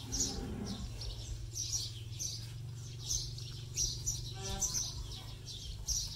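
Birds chirping repeatedly, short high chirps about two a second, over a steady low hum.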